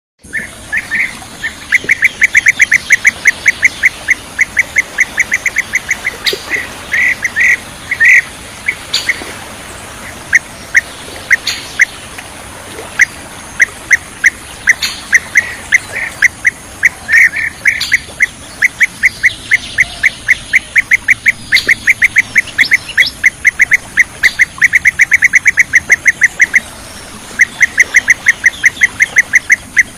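Bee-eater (kirik-kirik) calling: rapid runs of short, clipped, high calls, several a second, with brief pauses and a few louder notes between the runs.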